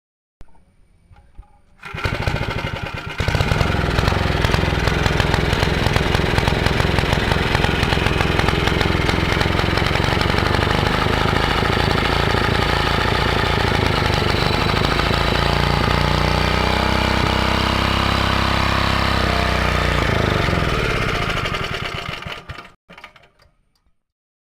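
Greaves Mk 12/2 engine cold-starting after long disuse: a few clicks, then it catches about two seconds in and picks up to a steady run. Near the end it slows, its pitch falling, and it dies away and stops.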